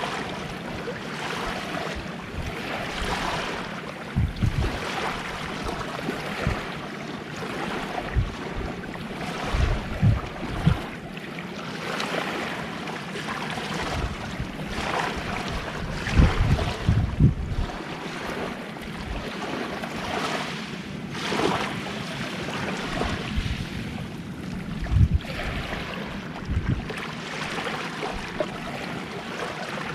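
Gentle sea waves washing onto a beach, the rush rising and falling every few seconds. Now and then wind gusts thump on the microphone.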